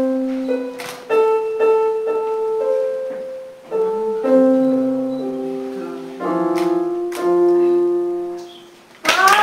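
Piano played slowly: held notes and chords struck one after another, with short pauses between phrases. Right at the end, loud voices break in.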